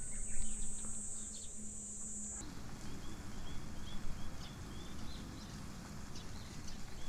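Outdoor ambience of birds chirping, with short repeated high chirps throughout, over a steady high insect drone that cuts off abruptly about two and a half seconds in; after that the birds go on over a low rumble.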